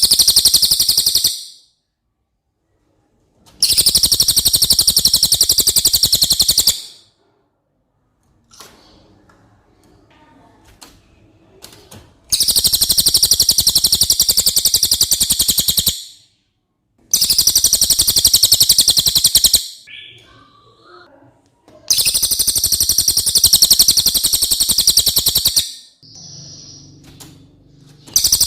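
Cililin bird singing: loud bursts of very rapid, high-pitched chattering trills. Each burst lasts about two to four seconds, with pauses of a few seconds between them, and there are five bursts in all.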